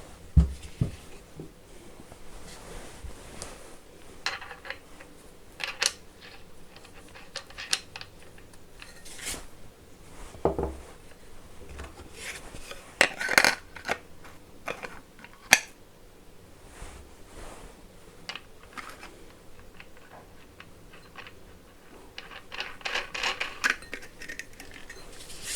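Small metal parts of an angle grinder being handled while a wheel is fitted: irregular clinks and clicks, with a few sharper knocks.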